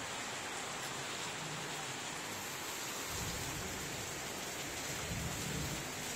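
Heavy rain falling steadily, a constant even hiss. From about halfway a low rumble comes and goes underneath it, strongest near the end.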